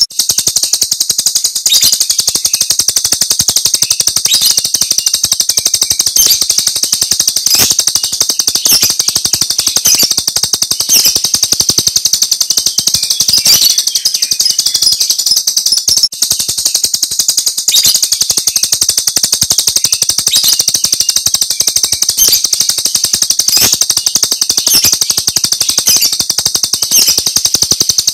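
Jalak Rio's 'tembakan' (shooting) song: a dense, unbroken rattle of very rapid, shrill high notes that briefly cuts out about halfway through.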